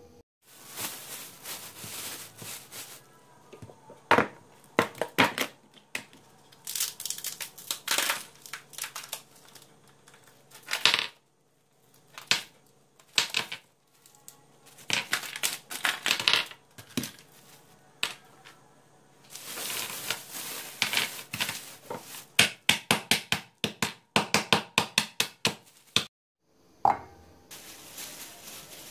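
Kitchen work: a long run of short knocks and clinks from dishes and utensils being handled, some in quick runs, with noisier scraping or rustling stretches and a faint steady hum beneath.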